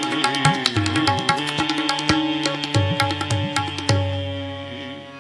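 Kirtan accompaniment closing out a shabad: tabla playing a quick run of strokes, with the bass drum's pitch bending, over a held harmonium chord. A last strong tabla stroke comes about four seconds in, and the harmonium chord rings on and fades.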